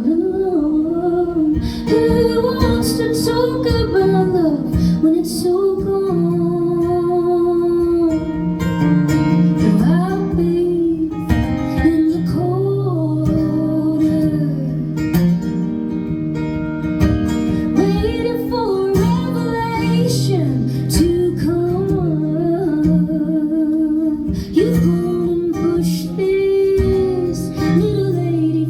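Live music: acoustic guitar strummed under a woman's singing voice.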